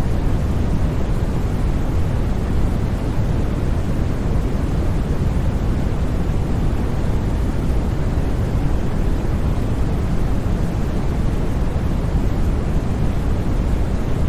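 Steady, unchanging white-noise track for sleep, with no breaks or events. Most of its energy sits in the low end, so it sounds like a deep, even rush rather than a bright hiss.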